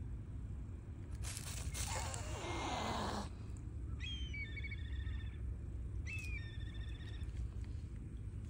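A bird calls twice, about four and six seconds in, each call a few sharp rising notes followed by a short buzzing trill. Before that there is a two-second hissing rush with a tone that slides downward, over a low steady rumble.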